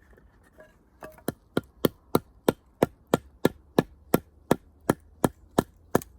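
Firewood being chopped: a quick, even run of sharp strikes, about three a second, starting about a second in.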